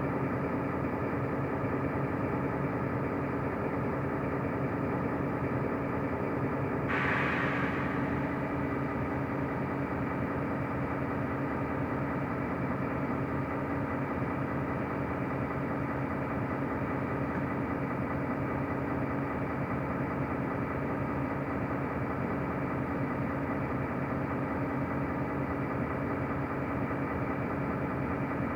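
Mercedes-Benz O345 Conecto city bus engine running at a steady speed, heard from inside the passenger cabin as an even hum. A short hiss rises over it about seven seconds in.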